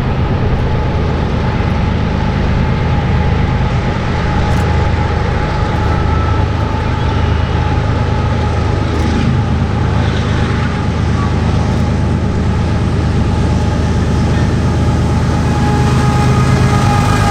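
Diesel freight train passing: the locomotives' engines give a steady low drone over the rumble of the train.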